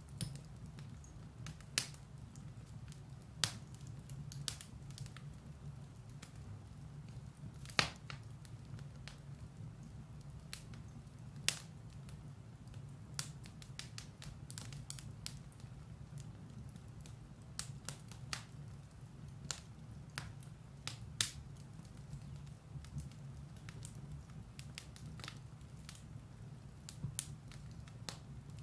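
Firewood burning in a fireplace: a steady low rumble of the flames with sharp, irregular crackles and pops, a few of them louder.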